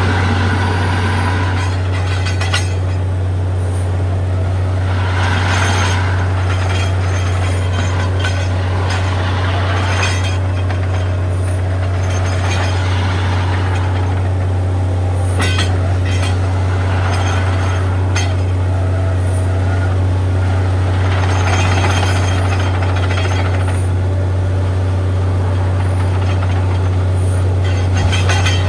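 Borewell drilling rig running with a steady, loud, deep hum. Swells of rushing noise come every few seconds, with now and then a sharp metallic clink.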